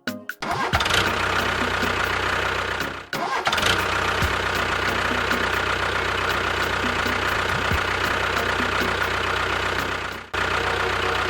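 Steady engine-like running of a machine motor, cut off abruptly for a moment about three seconds in and again about ten seconds in.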